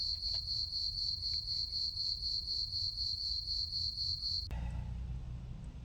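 Cricket chirping at night: a steady high-pitched trill pulsing several times a second over a low background rumble. It stops abruptly about four and a half seconds in, leaving only the low rumble.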